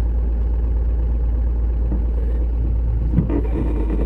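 Motor vehicle running on a rain-damaged road, a steady low rumble, with a short knock about three seconds in.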